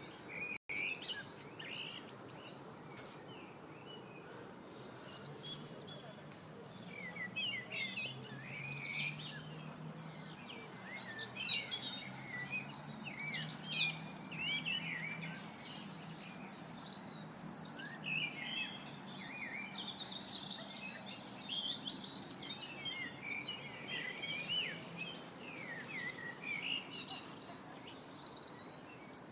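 Many songbirds chirping and singing in short, overlapping calls and trills, over a faint low hum.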